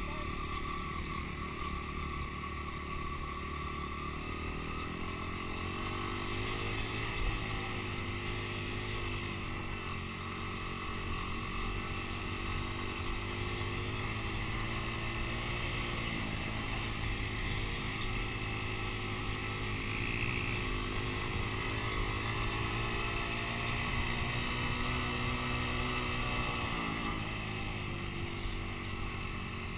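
Dirt bike engine running at low to moderate revs, its pitch rising and falling gently a few times as it is ridden.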